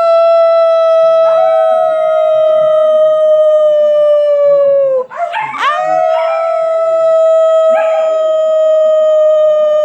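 A young puppy howling: two long, steady howls, the first breaking off about five seconds in and the second starting just after.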